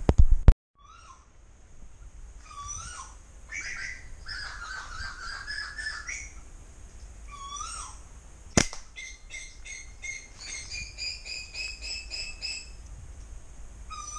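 A bird calling over and over, each phrase a short upward-hooked note followed by a quick run of high notes. A single sharp snap a little past halfway is the release of a flat-band rubber slingshot; a brief loud clatter comes at the very start.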